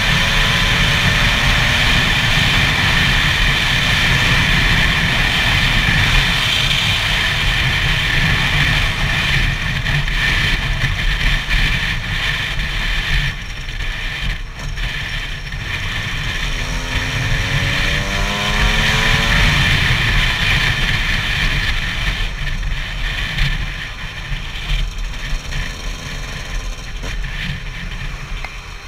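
Gas Gas EC 125 two-stroke single-cylinder motorcycle engine under way at high revs. It eases off about halfway through, then climbs steadily in pitch for a few seconds as the throttle opens again, with wind rushing over the helmet-mounted microphone.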